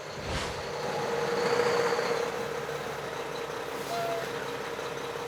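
Steady truck noise with a constant hum, swelling over the first two seconds and then holding steady.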